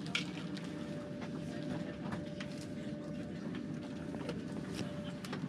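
Cabin of a Thalys high-speed train under way: a steady low running rumble with a faint steady whine, which stops shortly before the end, and scattered small clicks and rattles.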